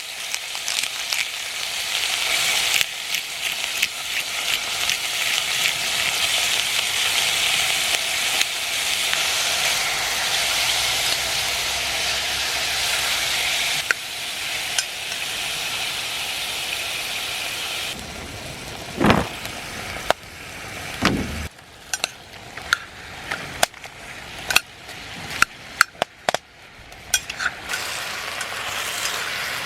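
Food sizzling loudly in hot cast-iron cookware over a campfire, with stirring. The sizzle stops abruptly past the halfway point and gives way to quieter sizzling, two short scrapes and a run of sharp clicks and knocks of utensils against the pot.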